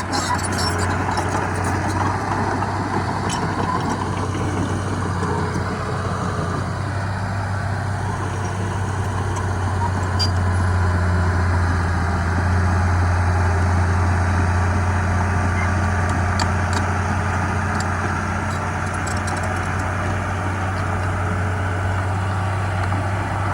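Heavy diesel engine of earthmoving machinery running steadily with a constant low hum, getting slightly louder for a few seconds in the middle. Occasional faint clicks can be heard over it.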